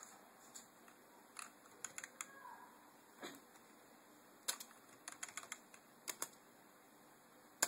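Scattered, irregular clicks of computer keyboard keys being pressed, a dozen or so, some in quick pairs and runs, with a sharper click near the end.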